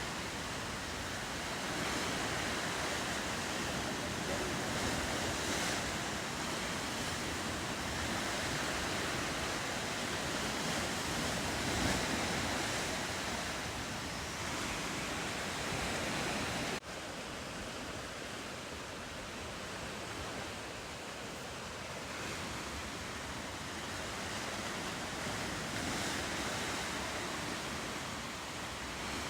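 Ocean waves and surf washing steadily, an even rushing hiss. A little over halfway through it steps down abruptly to a quieter, duller wash.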